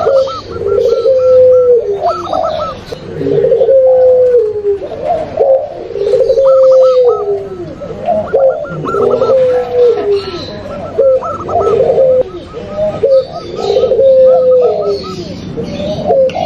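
Several doves cooing over one another: a mix of zebra dove, spotted dove and long-voiced puter pelung calls, played as a lure for trapping. A low cooing phrase repeats about every two seconds, and at times a quicker run of higher notes rides above it.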